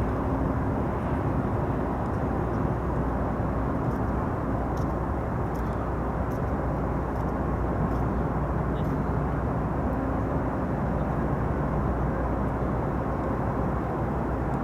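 Steady low machinery rumble with a few constant hum tones running through it.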